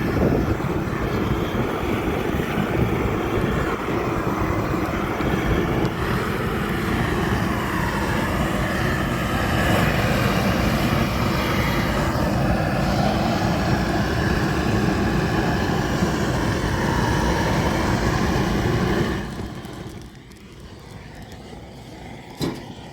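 An engine or motor running steadily, dropping away sharply near the end, followed by a single sharp knock just before the end.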